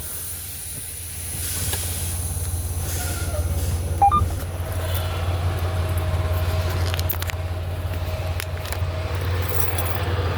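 Semi-truck diesel engine running at low speed, a steady low rumble heard from inside the cab, with a brief sharp click about four seconds in.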